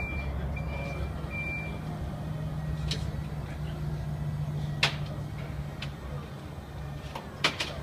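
A truck's reversing alarm beeps twice in the first two seconds, then stops, over the steady drone of its running engine. A few sharp knocks come later, the loudest near the end.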